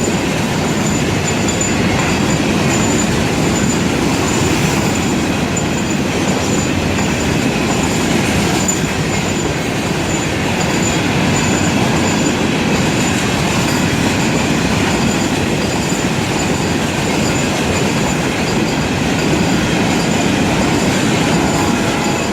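Florida East Coast Railway freight cars rolling past at close range: a steady, loud rumble of steel wheels on rail with some clickety-clack and a faint high wheel squeal that comes and goes.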